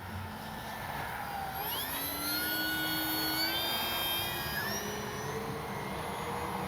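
Brushless electric motor and propeller of an FMS 1500 mm Cessna 182 RC plane in flight, a whine of several tones. The tones rise about two seconds in, hold, and then drift down toward the end.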